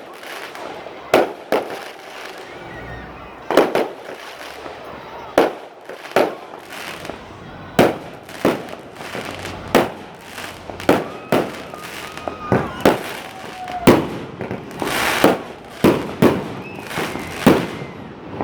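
Fireworks going off in a rapid series of sharp bangs, one or two a second, each trailing a short echo.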